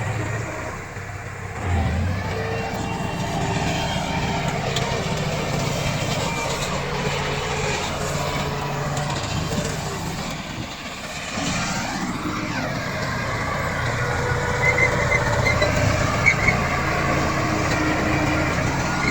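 Komatsu D68 crawler bulldozer's diesel engine working under load, its pitch rising and falling as it pushes soil. A few short high-pitched chirps come about three-quarters of the way through.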